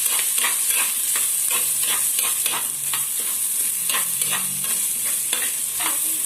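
Onion, garlic, ginger and chilies frying in hot oil with a steady loud sizzle, stirred with a spoon that scrapes through them in quick repeated strokes, about two or three a second.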